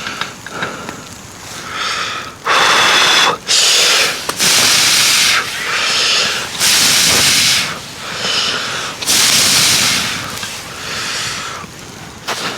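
Hard blowing breaths close to the microphone, about five in a row, each lasting around a second, starting a couple of seconds in and stopping near the end.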